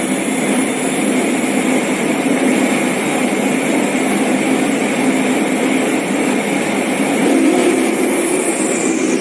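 The three jet engines of the Shockwave jet-powered Peterbilt truck running, a loud steady roar with a high turbine whine. The whine falls in pitch near the end.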